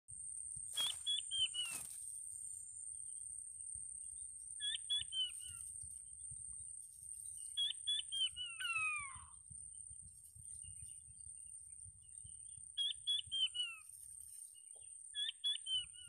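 A bird calls in short phrases of three or four quick, falling notes, repeated every three seconds or so, with a longer run of falling whistles near the middle. A thin, steady, high whine runs underneath, and there are two clicks near the start.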